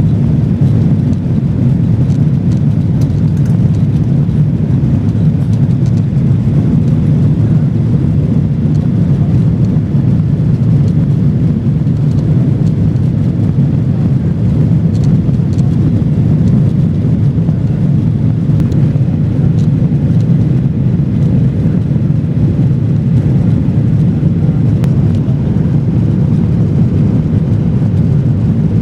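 Steady loud cabin noise of a Boeing 737-900ER in the climb, its CFM56-7B turbofans at climb power with airflow rush, a low even drone heard from a seat behind the wing.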